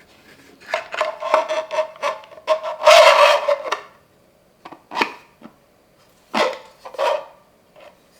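Rubbing and scraping strokes: a dense, uneven run in the first few seconds, then several short separate strokes.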